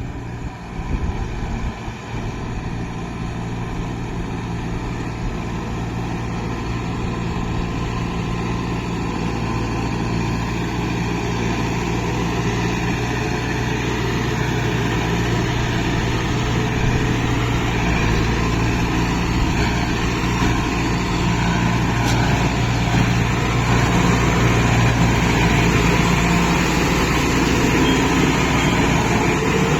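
Kubota MU5502 tractor's four-cylinder diesel engine running steadily, growing gradually louder over the stretch.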